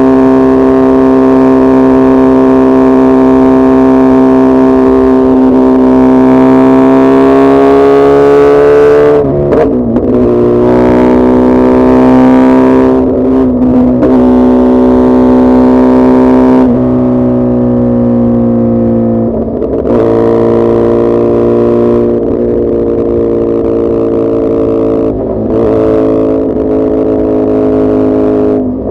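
Suzuki Hayabusa's inline-four engine running hard under load. It holds a steady note that climbs slowly, with brief breaks and changes of pitch several times, such as at gear changes or throttle changes.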